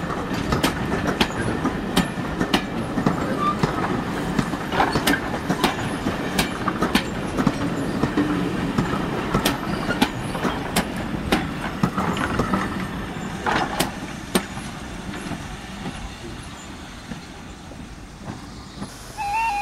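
Passenger coaches rolling past, their wheels clicking irregularly over rail joints above a steady rumble. The sound fades over the last few seconds as the end of the train moves away.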